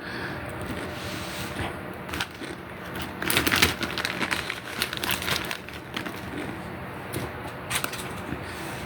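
A dog chewing on a bone: a run of irregular crunching and cracking, thickest a few seconds in.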